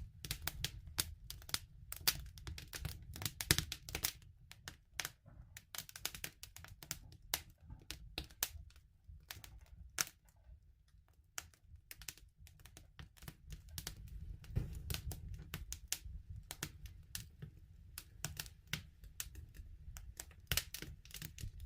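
Wood fire crackling: irregular sharp pops and snaps of burning wood over a low rumble of the flames, thinning out briefly about halfway through.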